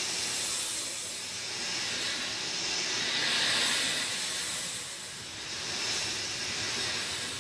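Steady rain falling, an even hiss that swells and eases slowly every few seconds.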